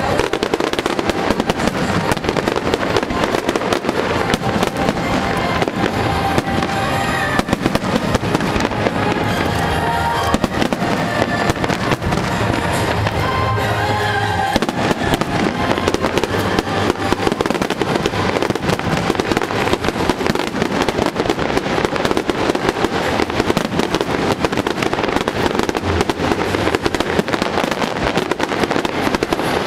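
Aerial fireworks going off in a dense, continuous barrage of bangs and crackles. Music plays underneath, clearer in the first half.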